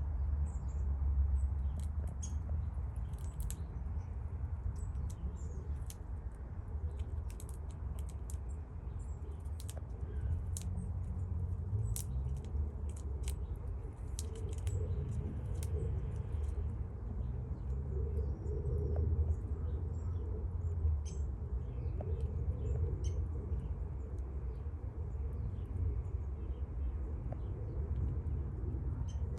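Eastern grey squirrel gnawing and chewing a sweet chestnut: many scattered sharp, crisp clicks, denser in the first half, over a steady low rumble. A few faint bird chirps come through about two-thirds of the way in.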